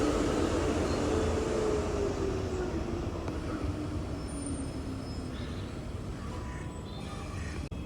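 Passenger train moving away along the platform, its running noise and motor tone fading and sinking slightly in pitch.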